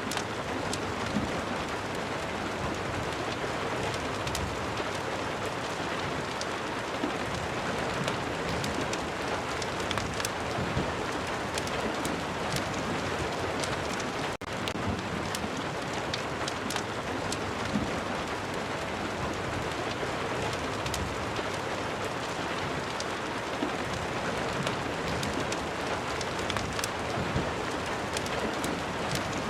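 Steady rain falling, a continuous hiss with scattered sharp ticks and pops through it. The sound dips for an instant about halfway through.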